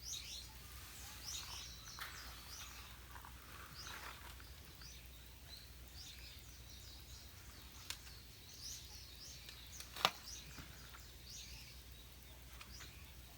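Small birds chirping and twittering on and off, with a few sharp clicks, the loudest about ten seconds in, over a low steady background rumble.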